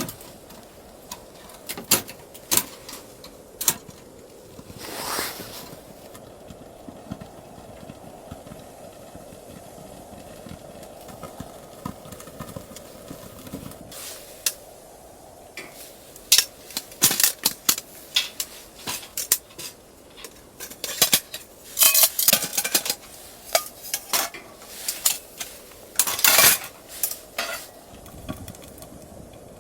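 Cooking pots, pans and utensils knocking and clinking as food is handled, in scattered strikes that grow busier in the second half.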